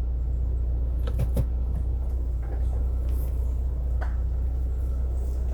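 Steady low rumble of a car heard from inside the cabin, with a few light clicks or knocks about a second in and again at about four seconds.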